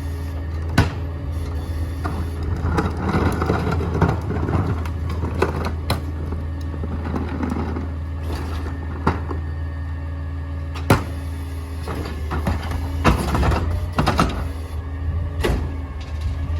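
Small garbage truck's engine running steadily, with a rough grinding stretch and several sharp clanks and bangs as trash is packed.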